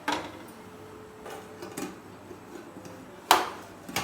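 Metal cookware being handled: a few sharp clanks and knocks, the loudest about three seconds in.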